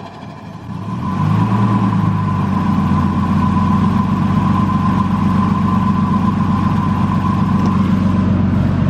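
Turbocharged Nissan Skyline engine settling into a steady idle about a second in, after a rev. It is running with the blow-off valve removed and its port blocked off. A thin, steady high tone sits above the idle.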